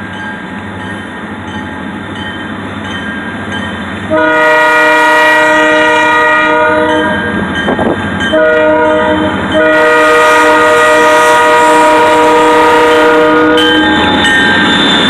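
Freight locomotive's air horn sounding a chord of several notes for the grade crossing: a rumble of the approaching train, then a long blast about four seconds in, a shorter one, and a final long blast that cuts off near the end, leaving the rumble of the train passing.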